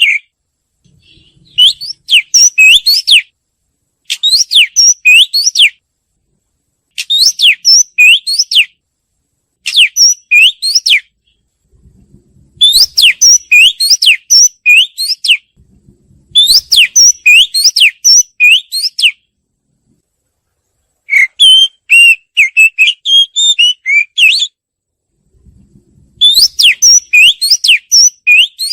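Oriental magpie-robin singing: about eight short phrases of clear whistled notes that rise and fall, each a second or three long, with brief silent pauses between them.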